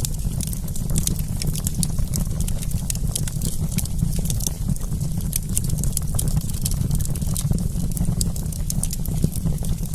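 Wood campfire crackling: many sharp, irregular pops and snaps, several a second, over a steady low rumble.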